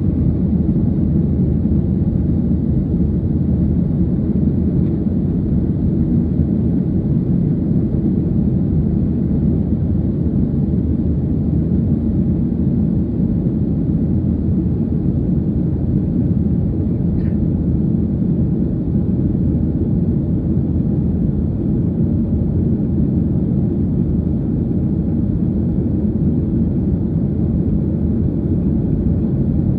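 Steady low rumble inside a jet airliner's passenger cabin: engine and airflow noise.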